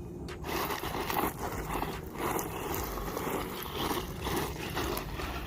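Small electric RC truck running over dirt: light drivetrain gear noise and tyre crunch that rise and fall in uneven surges.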